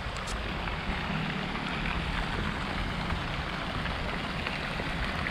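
Steady rain hiss with wind rumbling on the microphone.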